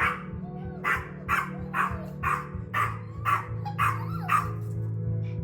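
Chihuahuas barking rapidly in excitement, about two sharp barks a second, an alert at someone arriving home. The barking stops about a second before the end.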